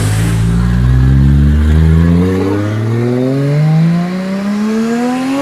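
A Ford car's engine accelerating away under load, its pitch climbing steadily.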